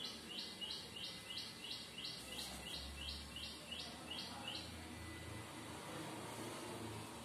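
A bird calling in a quick run of about fourteen short, high, identical chirps, about three a second, which stops a little past halfway through.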